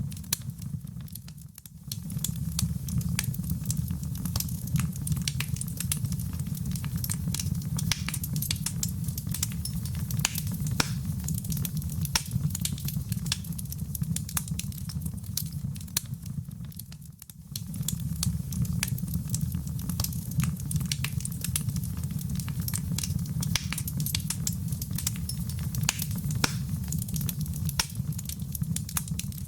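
Wood fire in a fireplace crackling, with many sharp pops over a steady low rumble. The sound dips briefly twice, about one and a half seconds in and again about seventeen seconds in.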